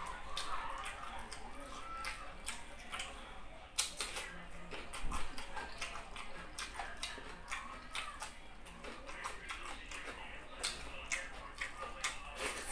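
Close-miked eating: a person chewing by mouth, with many irregular sharp wet clicks and smacks of the lips and mouth.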